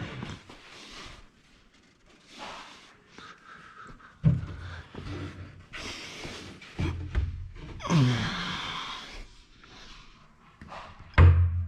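Steel scaffolding parts being handled and fitted together: a run of knocks and clanks with a longer scrape around the middle, and the loudest knock near the end.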